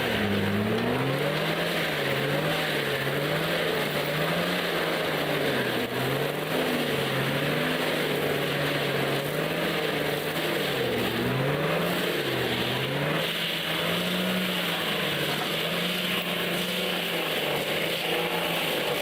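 A heavy machine's engine running under changing load, its pitch rising and falling again and again.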